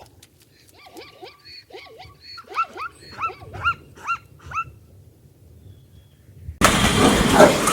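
Dog yelping: a run of about ten short, high yelps, each rising and falling in pitch, growing louder. Near the end a sudden loud, rough noise cuts in.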